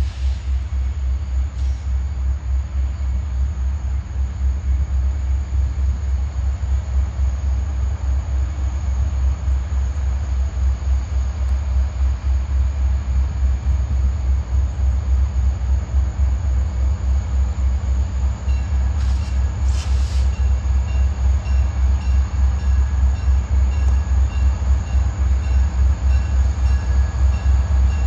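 Wheeling & Lake Erie freight train rolling past, a heavy rapidly pulsing rumble that grows slightly louder. Faint steady high-pitched tones join in about two-thirds of the way through.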